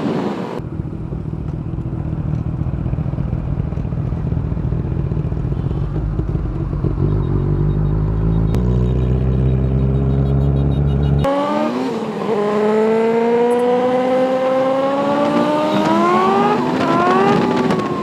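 Motorcycle engine at speed. First a steady low drone that steps up in pitch about two-thirds of the way through; then, after an abrupt change about 11 seconds in, the engine revs hard, its pitch climbing, with a gear change near the end.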